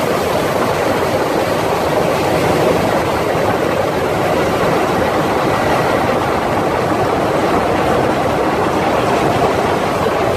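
Historic electric-hauled train running at speed, heard from an open carriage window: a steady rush of wind and wheel-and-rail noise.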